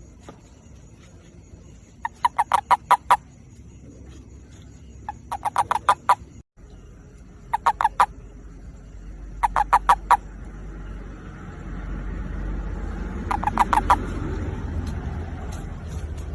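Toad giving its mating call: five short, rapid pulsed trills, each about a second long, a few seconds apart. A low rumble builds in the background over the second half.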